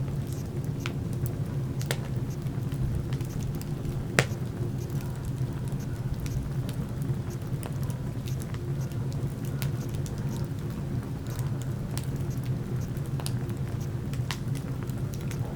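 Wood burning in a fireplace, crackling with scattered sharp pops over a steady low rumble; the loudest pop comes about four seconds in.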